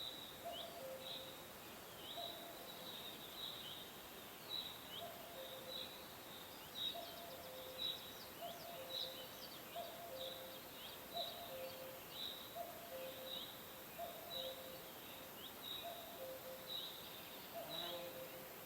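Songbirds chirping: short, high, falling chirps about twice a second, with a lower two-note call repeating steadily beneath them, over a steady hiss.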